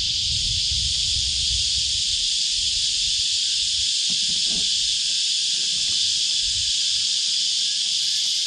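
Chorus of cicadas, a loud, steady high-pitched buzz that does not let up, with a faint low rumble underneath.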